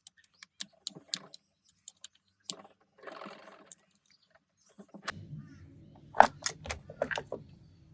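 Metal clinks and knocks of hand tools and transmission parts being handled during a teardown, sharpest in a quick cluster just after six seconds. A low hum comes in about five seconds in.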